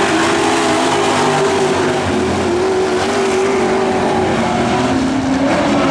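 Several dirt-track pro trucks racing, their engines running loud together with pitches that waver up and down as they power around the track.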